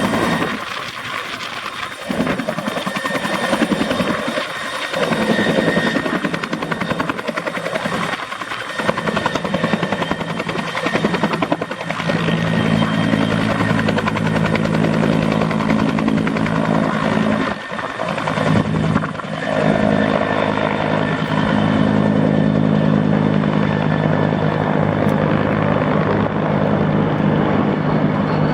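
Bell 212 twin-engine helicopter with its two-blade main rotor running at full power as it departs: an uneven, pulsing rotor chop in the first part, settling into a steady drone about halfway through, with the hiss thinning toward the end.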